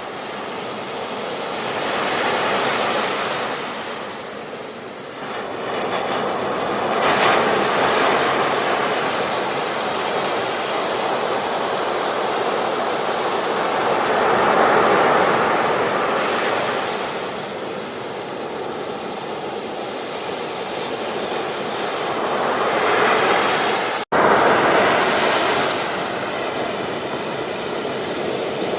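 Ocean waves breaking and washing on a beach, the surf swelling and ebbing every few seconds. The sound cuts out for a split second near the end.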